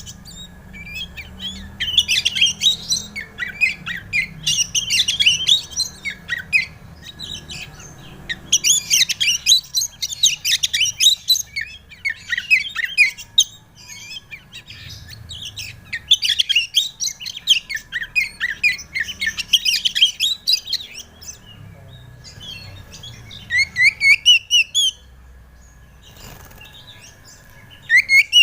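Oriental magpie-robin (kacer) singing a loud, rapid, varied song of quick sweeping notes. The song comes in bursts of a few seconds with short pauses, and a longer pause comes near the end before it starts again.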